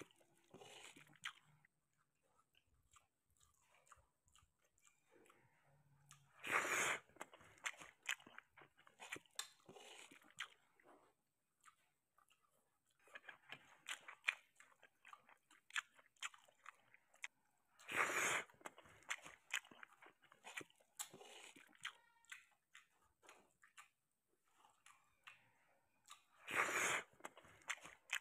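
Close-up wet chewing and lip-smacking of hand-eaten rice and sardines in tomato sauce, with many small clicks throughout. Three louder noisy bursts of about a second each stand out, about a quarter, two thirds and nine tenths of the way through.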